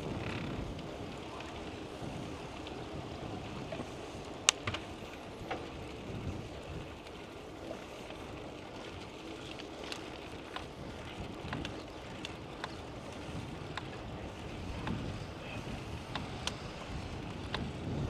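Wind buffeting the microphone on a moving bicycle: a steady low rushing, with scattered sharp clicks and ticks, the loudest about four and a half seconds in.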